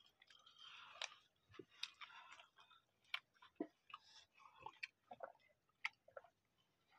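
Faint close eating sounds: chewing and soft mouth clicks as rice is eaten by hand, with scattered small ticks.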